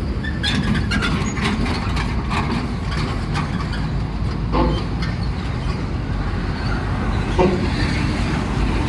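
Heavy truck's diesel engine running with a steady low rumble, with scattered clicks and rattles over the first few seconds.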